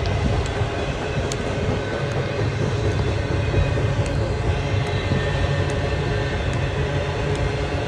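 Long CSX freight train rolling slowly past: a steady low rumble of the cars on the rails, with scattered faint clicks.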